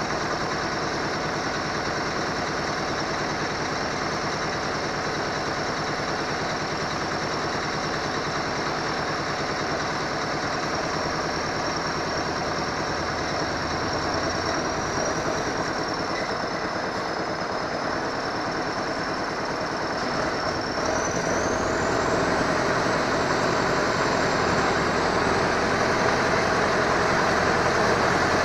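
KamAZ truck's diesel engine running steadily under load, with a thin high whine over it. About 21 seconds in the whine rises in pitch and the engine gets louder as the revs go up.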